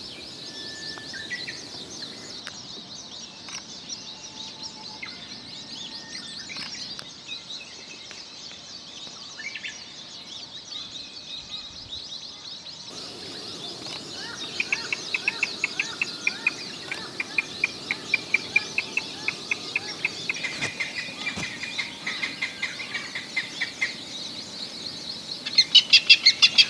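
Okinawa rail (Yanbaru kuina) calling in a rapid series of loud repeated notes, about four a second. The series starts about halfway through and comes again, louder, near the end. Underneath is a steady, high-pitched chirping of forest birds.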